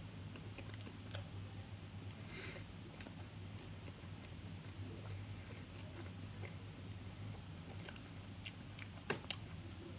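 A person chewing a barbecue-sauced chicken tender, with faint wet mouth clicks and smacks over a low steady hum, and two sharper clicks near the end.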